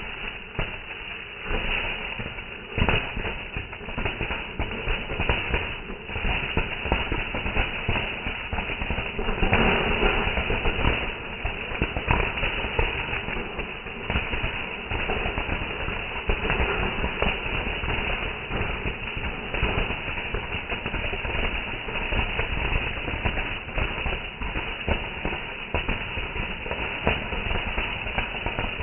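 Fireworks going off: a continuous dense crackle of pops and bangs, with the sharpest bangs about three seconds in and around ten to twelve seconds in.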